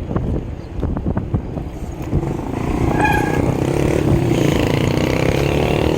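A motor vehicle's engine grows louder from about halfway through and then holds steady, as it comes up close to the bicycle. In the first two seconds it sits under scattered thumps of wind buffeting the microphone.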